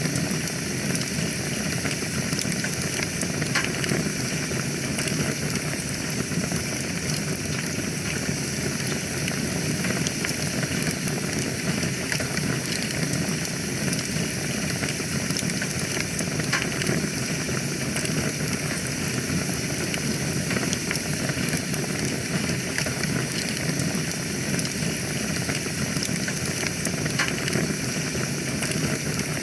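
Fire burning in a fireplace: a steady low rush of flames with frequent small crackles and pops scattered throughout.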